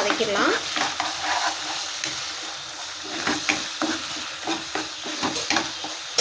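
Onion-tomato masala sizzling as it fries in a nonstick kadai, while a metal spoon stirs it with irregular scrapes and taps against the pan.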